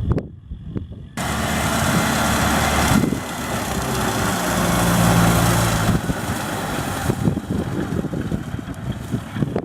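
Kubota M6040SU tractor's diesel engine running. It jumps suddenly louder about a second in and eases off somewhat after about six seconds.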